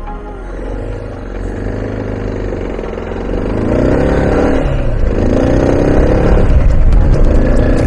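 Motorcycle engine accelerating, its revs climbing, dropping briefly at a gear change about five seconds in, then climbing again and growing louder toward the end.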